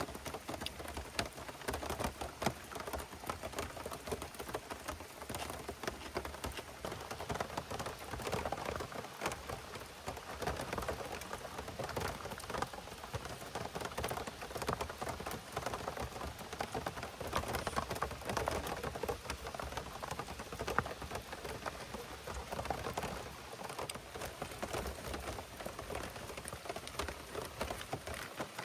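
Steady rainfall, with many separate drops ticking against a surface.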